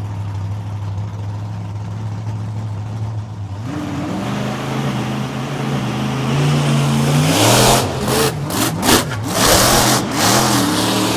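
Monster truck engine running loud: a steady low idle, its note stepping up about four seconds in, then a series of hard revs from about seven seconds in.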